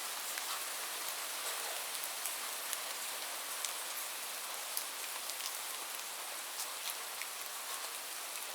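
Steady rain: a constant high hiss with scattered sharp ticks of individual drops striking a surface.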